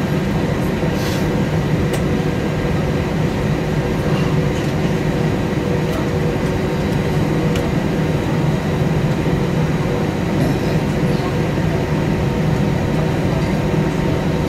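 Steady cabin noise inside an Airbus A320-232 airliner: an even drone of engines and airflow with a constant low hum.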